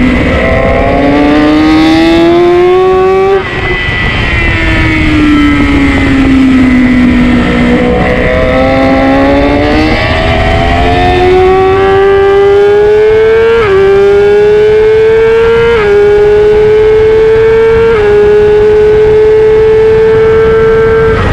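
Sport motorcycle engine heard from onboard at track speed: it revs up, cuts back sharply about three and a half seconds in and winds down through a slow corner, then pulls hard again, its pitch dipping briefly at each of several quick upshifts as it accelerates down the straight. Steady wind rush runs underneath.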